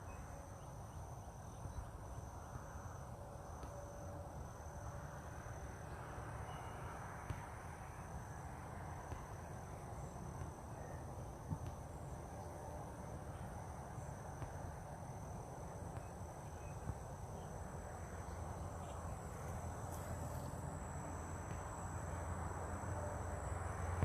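Outdoor insect chorus: crickets or similar insects calling in a continuous, high-pitched, steady drone, over a low background rumble.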